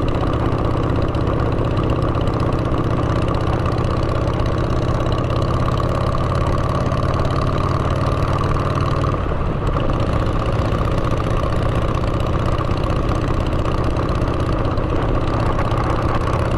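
Motorcycle engine running through straight drag pipes, steady and loud, with its note changing about nine seconds in.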